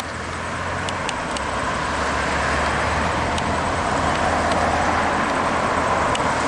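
Road traffic passing: tyre and engine noise from a car that builds over the first couple of seconds and then stays steady.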